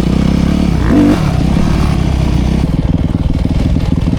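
Dirt bike engine running under a rider, its pitch shifting as the revs change, with a lower, rougher beat in the later part.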